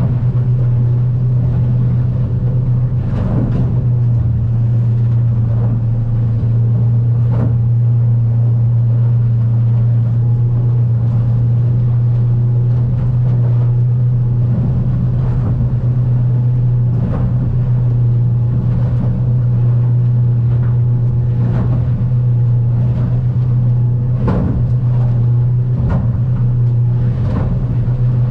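Outboard motor of a Stabicraft 2050 Supercab aluminium boat running at a steady cruising speed, a constant low drone. Every few seconds, at uneven intervals, a sharp thump or splash as the hull meets the swells.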